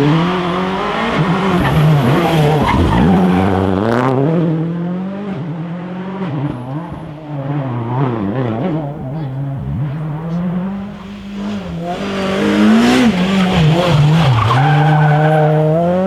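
Rally car engine revving hard, its pitch climbing and dropping again and again through acceleration, gear changes and braking; it eases off in the middle and climbs steadily again near the end.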